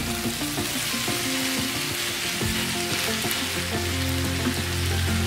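Bitter gourd and onion sabzi sizzling steadily in a hot frying pan while a wooden spatula stirs and turns it.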